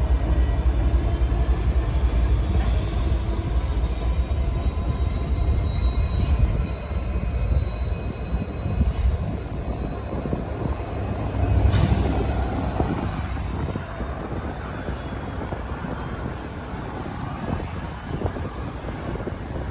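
Union Pacific freight train rolling past with a steady low rumble of wheels and cars, broken by a few sharp clanks. It grows quieter over the second half.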